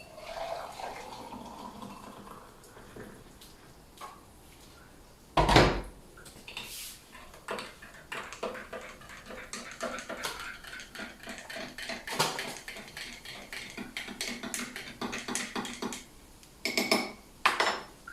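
Kitchen clatter of dishes and cutlery: a long run of small clinks and taps, with one heavier knock about five seconds in and two louder clatters near the end.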